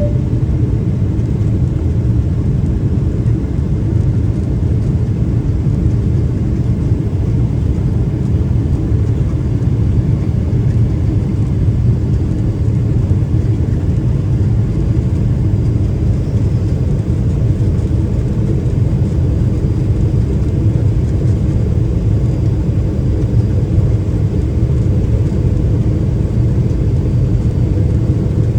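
Steady cabin noise inside a Boeing 777-300ER in descent: the low, even rumble of airflow and the GE90 engines, unchanging in level.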